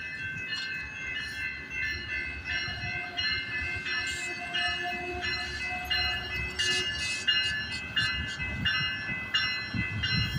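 Amtrak Wolverine passenger train departing with a low rumble, while a bell rings steadily at about two strikes a second.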